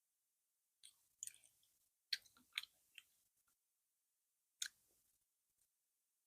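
Mouth sounds of someone eating fufu with okra soup: a handful of short, sharp wet clicks and smacks from chewing, spread over a few seconds with quiet gaps between them.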